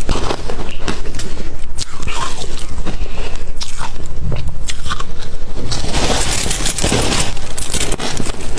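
Ice being bitten and chewed close to the microphone: loud, irregular crunches and sharp cracks, with a denser stretch of grinding crunches about six seconds in.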